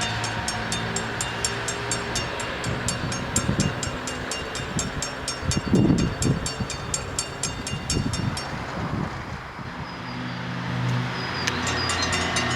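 Train passing over a Dutch automatic half-barrier level crossing, its wheels over the rails loudest about six seconds in. Through it the crossing's electronic bells ring rapidly; they stop about two-thirds of the way through and start again near the end.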